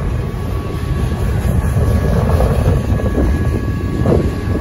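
Double-stack intermodal freight cars rolling past at a grade crossing: a steady wheel-and-rail rumble with clattering that gets louder about two seconds in. The crossing's GS Type 1 electronic bell rings faintly underneath.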